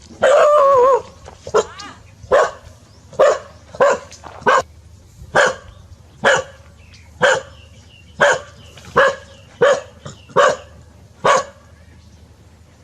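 A dog gives a short wavering whine, then barks steadily, about thirteen sharp barks roughly one a second, stopping near the end.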